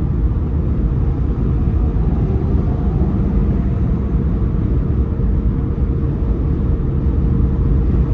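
Steady road and engine rumble of a car being driven, heard from inside the cabin, with a faint steady hum running under it.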